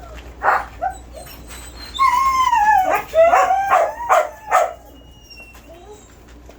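A dog yips twice, then gives a long whine that falls in pitch, followed by a quick run of short yips.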